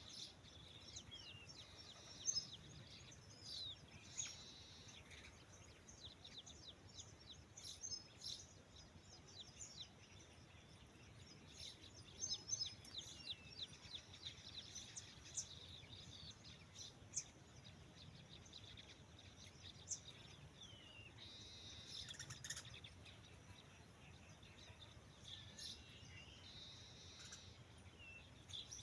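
Birds chirping faintly, many short high calls and a few falling whistles scattered throughout.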